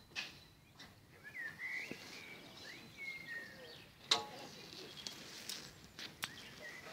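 Songbirds chirping and singing faintly over quiet outdoor ambience. A short, sharp sound comes about four seconds in, followed by a couple of faint clicks.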